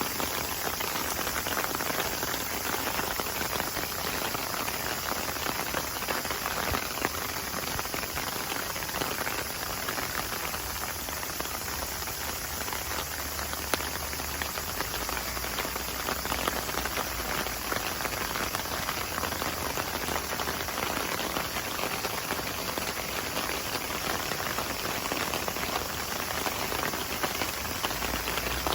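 Steady patter of falling water, like rain: a dense, even hiss of many small drops.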